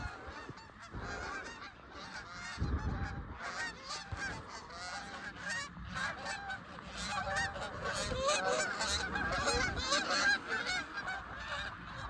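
Canada goose honks and clucks, many overlapping, growing busier and louder in the second half.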